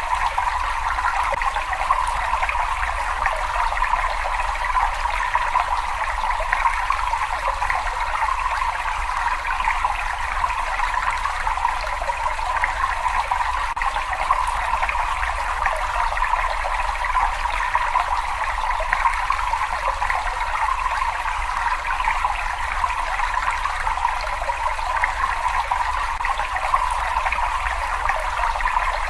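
Water running steadily in a cave: an even, unbroken splashing noise with a low rumble underneath.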